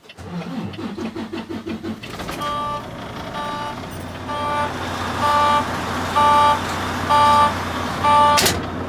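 Volvo semi truck's diesel engine cranking with fast rhythmic pulses and catching, then settling into a steady idle. Dashboard warning beeps start about two seconds in and repeat about once a second. A sharp click comes near the end.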